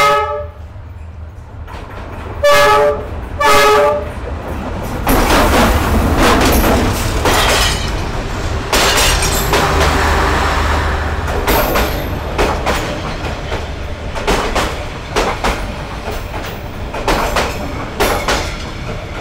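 A passenger train's diesel locomotive sounds its horn in three short blasts, one right at the start and two close together about two and a half and three and a half seconds in. From about five seconds the locomotive and its coaches pass at arm's length, the engine running and the wheels clacking over the rail joints.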